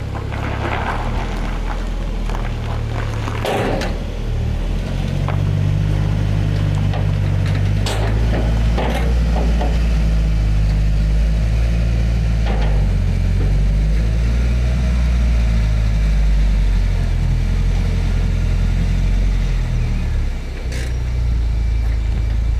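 A car engine running close by, its low note shifting up and down, with a few short knocks and clanks.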